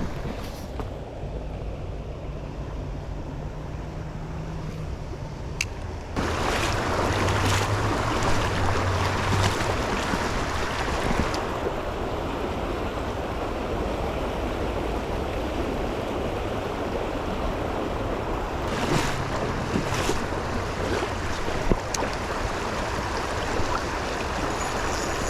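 Shallow, fast-moving river water rushing steadily over rocks, getting louder about six seconds in.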